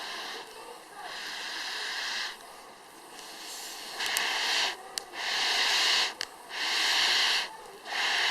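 Wood fire crackling in a fire pit stand, with sharp crackles over five hissing bursts of air, each under about a second long, louder in the second half.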